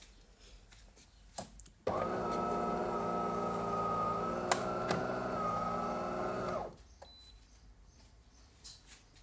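An electric motor in a De'Longhi Dinamica Plus bean-to-cup coffee machine hums steadily at one even pitch for about five seconds, starting and stopping abruptly, with a few clicks around it.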